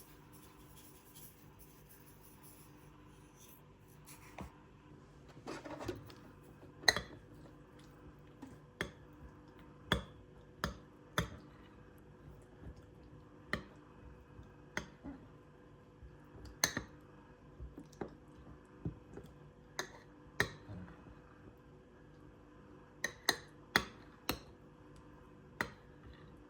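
Irregular light clicks and taps of small hard objects being handled, with a brief scrape about six seconds in, over a faint steady hum.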